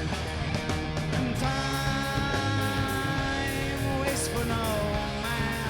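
Live rock band playing an instrumental passage: electric lead guitar holding long notes that bend in pitch, over rhythm guitar, bass guitar and drums.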